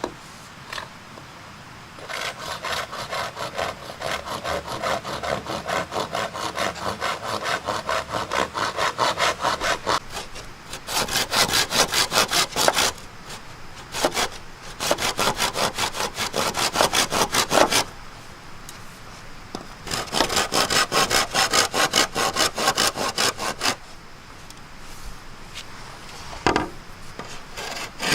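Hand saw cutting with quick, even back-and-forth strokes, in four bouts with short pauses between them.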